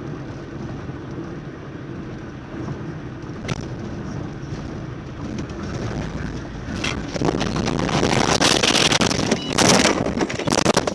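Road and engine noise of a moving car, with a few sharp knocks. The noise grows louder and rougher in the last few seconds.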